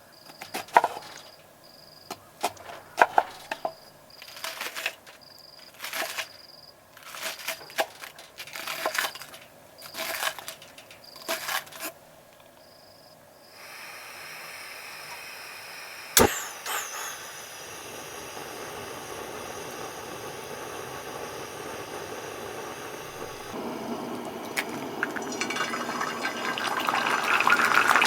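A run of sharp, irregular knocks and cracks for about twelve seconds. Then a steady hiss begins and slowly grows louder, with one sharp click about sixteen seconds in.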